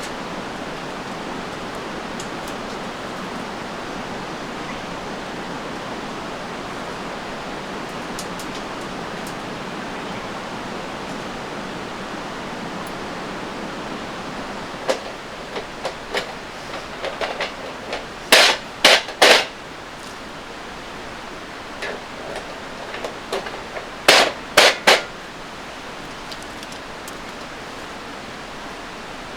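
Sharp strikes or scrapes from fire-lighting work, the loudest in two quick groups of three, over a steady rushing noise like running water.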